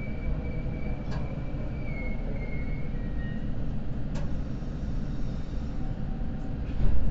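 Inside a Seibu Red Arrow limited express car standing at a station platform: steady low hum of the stationary train, with a faint high whine that fades out about three seconds in and two short clicks.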